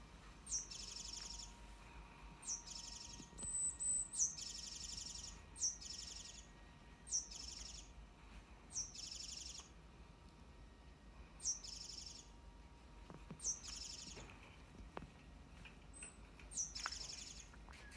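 A wild songbird calling over and over: each call a sharp, high downward note followed at once by a rapid buzzy trill, about nine calls spaced a couple of seconds apart.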